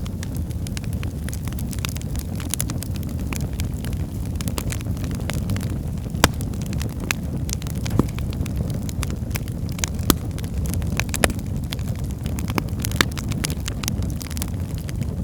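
Wood fire burning in a fireplace: a steady low rumble of flames with frequent crackles and a few sharper pops of the burning logs.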